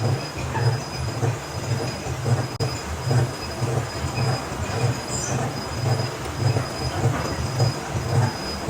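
Workshop machinery running, with a low rhythmic thump about twice a second over a steady rumble and a faint high whine.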